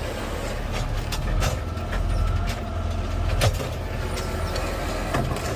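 Garbage truck engine running, a steady low rumble, with a few brief knocks and clicks.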